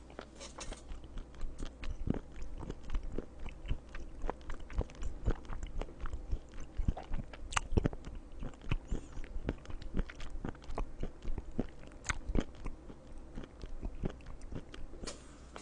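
Close-miked chewing of chopped raw live octopus (sannakji): a steady run of irregular wet smacks and small clicks of the mouth and teeth.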